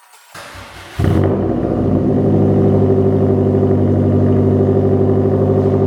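Subaru WRX STI's turbocharged flat-four engine cranking briefly, catching about a second in, then idling loudly and steadily through its twin exhausts with the rear silencers deleted.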